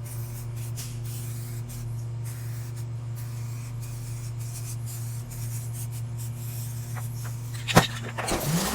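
Garbage truck engine running with a steady low hum. Near the end comes a sharp clunk, then the pitch rises and holds higher as the engine speeds up.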